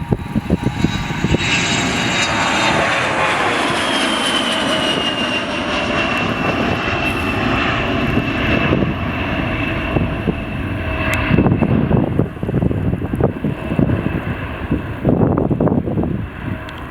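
Beriev Be-200 amphibious aircraft flying past with its jet engines running, the engine whine falling in pitch over several seconds as it passes. Irregular low buffeting comes in over the last few seconds.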